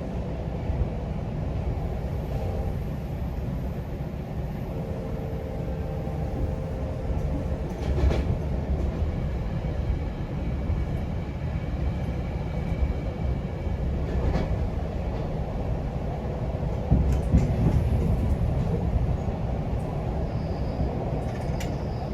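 GO Transit commuter train under way on the rails: a steady low rumble of wheels on track, with a few sharp clicks or knocks spread through it and a slightly louder stretch about two-thirds of the way in.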